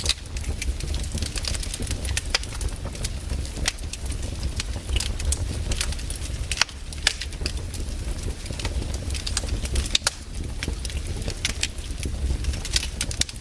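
Wood campfire crackling, with irregular sharp pops and snaps from the burning logs over a steady low rumble.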